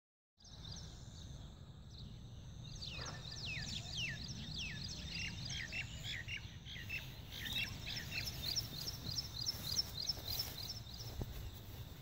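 Bird chirping: a run of quick, high, downward-sweeping chirps, about three a second, starting about three seconds in and dying away near the end, over a steady low rumble.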